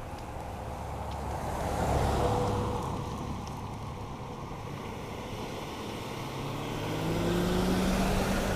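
A car drives past close by about two seconds in. A second vehicle passes near the end, its engine pitch rising as it accelerates.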